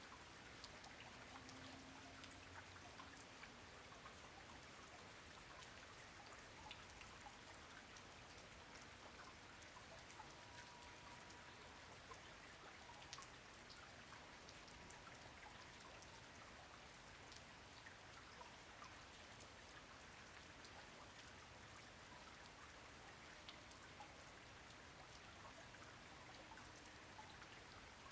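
Faint, steady rain, with many individual drops ticking sharply through an even patter.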